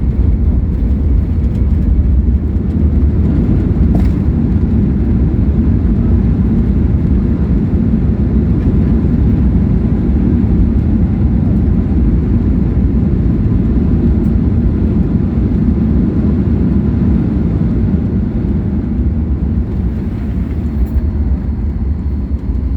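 Steady low rumble of engine and airflow noise inside the cabin of a Boeing 737 MAX 8, easing off slightly near the end.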